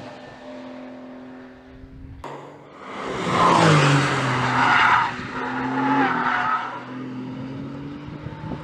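Porsche 911 flat-six engine and exhaust running at steady revs, then accelerating hard from about three seconds in with a loud, rising note. The revs ease back to a steadier tone near the end.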